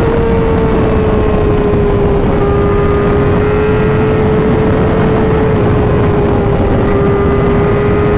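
Sport-bike inline-four engine cruising at highway speed, its note holding nearly steady after a slight drop in pitch in the first couple of seconds. Heavy wind rumble on the microphone runs underneath.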